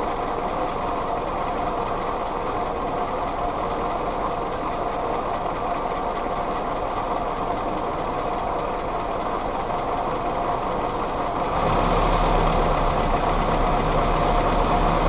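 Willys CJ2a Jeep's L134 Go Devil four-cylinder flathead engine running steadily, with the distributor's vacuum advance just reconnected. About three quarters of the way through it gets louder and a steady low hum comes in.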